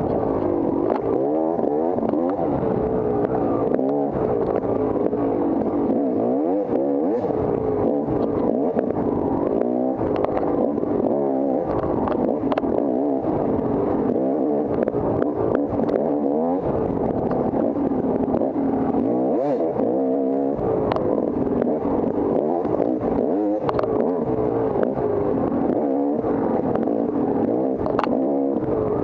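Off-road dirt bike engine ridden hard, its pitch rising and falling again and again as the throttle is worked, with scattered sharp knocks and clatter.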